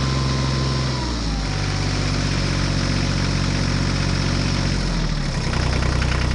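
Tractor engine idling steadily; its pitch drops about a second in and picks up again near the end.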